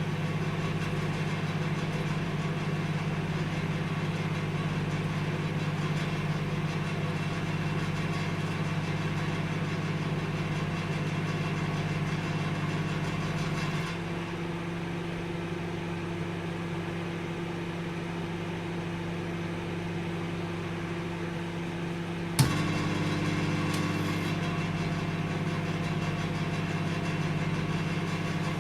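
Microwave oven running with a steady low electrical hum. About halfway through the hum drops a little and its tone shifts. Some seconds later a sharp click sounds, and the fuller hum resumes.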